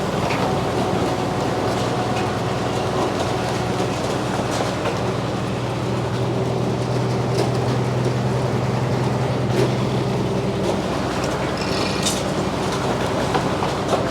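Frick circular sawmill running steadily, its power unit giving a low hum with a steady higher whine from the spinning blade. The low hum drops away about ten seconds in.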